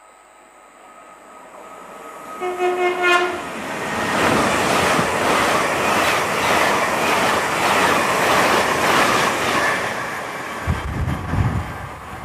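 A train sounds a short horn blast, then passes at speed: a loud rushing rumble with a rhythmic clatter of wheels that eases off near the end, where a few low thumps are heard.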